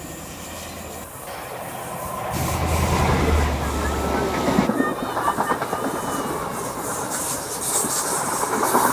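First Great Western High Speed Train (InterCity 125) passing close, rising in level as it approaches. The leading diesel power car's engine drones low for about two seconds, then the coaches follow with rapid clickety-clack from wheels over rail joints and a rushing hiss.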